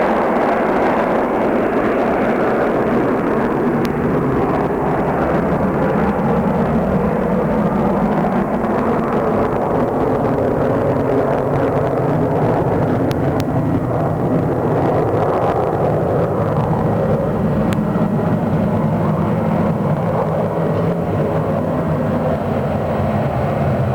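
McDonnell Douglas DC-9 jet airliner at takeoff power, its two rear-mounted Pratt & Whitney JT8D turbofans giving a loud, steady jet noise with no change in level.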